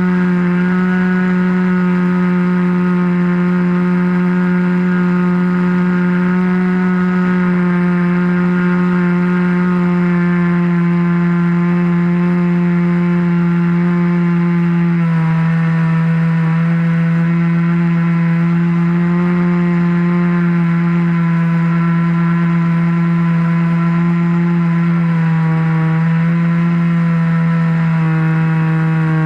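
RC airplane's engine and propeller running steadily in flight, heard up close from a camera on the wing. The pitch steps down a little about halfway through and again near the end as the throttle eases.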